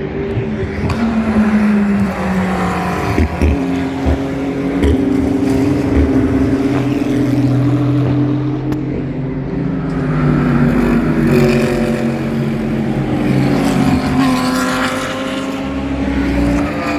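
Several GT race car engines running hard on track, their overlapping notes rising and falling as the cars pass, accelerate and change gear, with a few sharp pops about three to five seconds in.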